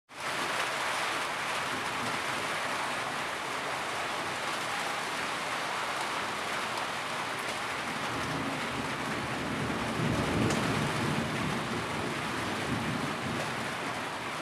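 Steady, heavy rainfall, a dense even hiss of rain that fades in at the start. A low rumble swells briefly about ten seconds in.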